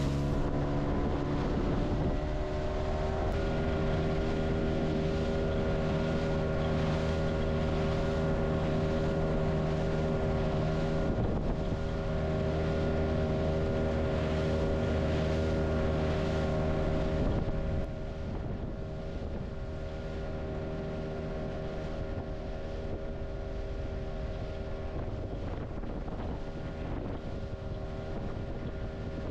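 Boat motor running under way, its pitch climbing over the first few seconds and then holding steady. A little past halfway it drops to a lower, quieter running, with wind on the microphone.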